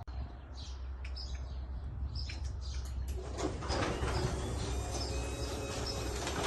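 Garage door opener starting up about halfway in and running steadily as it moves the door, answering the newly programmed remote. Before that, a few short high chirps over a low hum.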